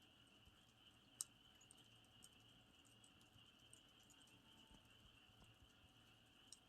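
Faint campfire crackling, a few sharp pops with the loudest about a second in, over a steady high trill of crickets.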